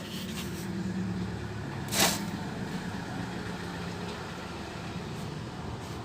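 Steady low motor hum, like an idling engine, with a short hiss about two seconds in.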